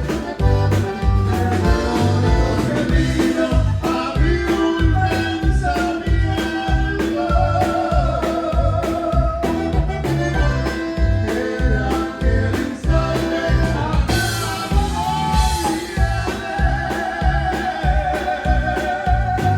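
Tejano band playing live, a singer holding long, wavering notes over a steady bass-and-drum beat.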